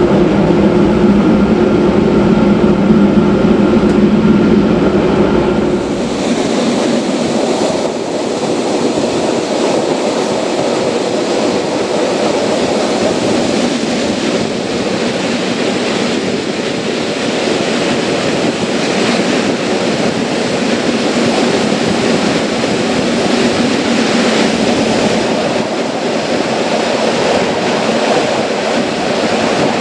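Metre-gauge electric rack train of the Matterhorn Gotthard Bahn running on the rack section: a steady whine from its drive over a low rumble. About six seconds in the sound changes abruptly to an even rushing of wheels on rail and passing air.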